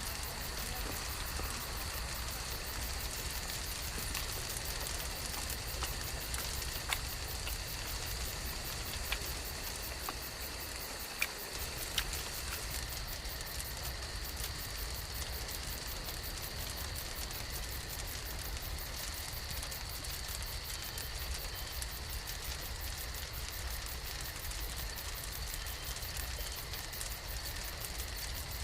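Wood campfire burning with a steady hiss, broken by a few sharp crackling pops between about a third and halfway through.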